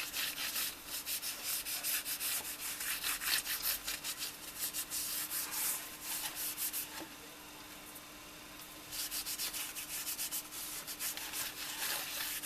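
Quick back-and-forth rubbing strokes on a sandal's sole base, wiping it down to clear dust and degrease it before gluing. The strokes pause about seven seconds in and resume about two seconds later.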